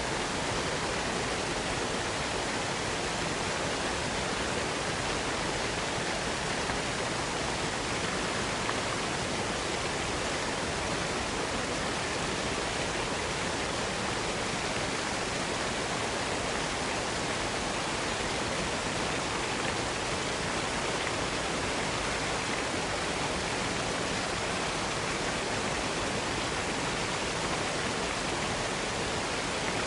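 Waterfall cascade: a steady, even rush of falling water with no breaks or changes.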